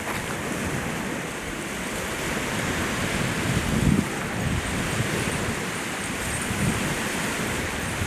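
Wind-driven waves washing and slapping against the shore, with wind buffeting the microphone; a louder low surge comes a little under four seconds in.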